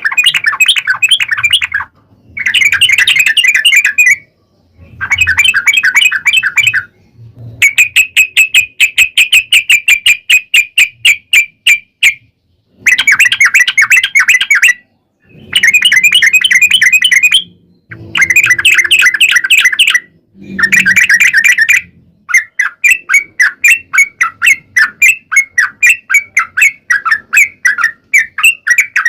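A yellow-vented bulbul (trucuk) singing bouts of about two seconds of fast repeated chattering notes with short pauses between them. Near the end it goes into a longer unbroken run of rapid notes, the long 'ropel' trill.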